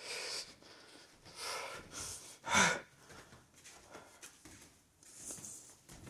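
A person breathing noisily close to the microphone: a few short breaths, the loudest about two and a half seconds in.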